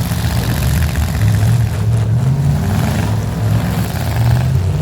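Engines of demolition derby vehicles running and revving unevenly, a loud low rumble that rises and falls in pitch.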